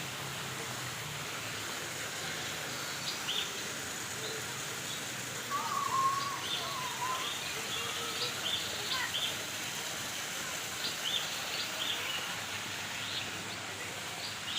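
Birds chirping over a steady background hiss: scattered short, high chirps, with a lower warbling call about five to six seconds in.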